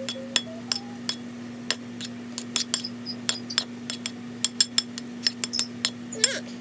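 Metal utensil clinking and scraping against a plate in many quick, irregular taps, mixing canned cat food with sprinkled-in supplement powder.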